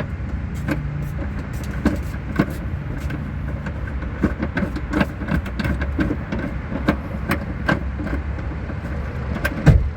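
Irregular metallic clicks and knocks from the spare-tire hoist winch being cranked down with a tire iron to lower its cable, over a steady low rumble.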